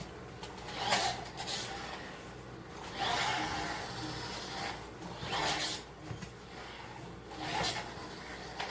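Hands kneading flour-and-water dumpling dough, rubbing and pressing it in a bowl in irregular bursts of scraping, rasping noise.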